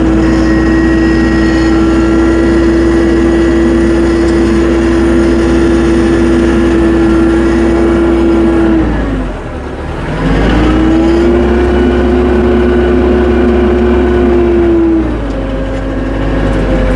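Tractor engine running at steady high revs. It drops off sharply about halfway through, comes back up about a second later, and settles to lower revs near the end.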